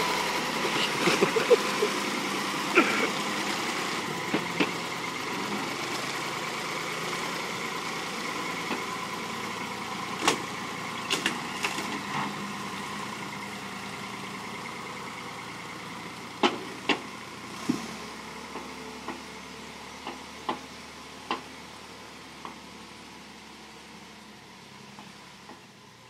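Tractor engine running steadily and growing gradually fainter, with scattered sharp clicks and knocks over it.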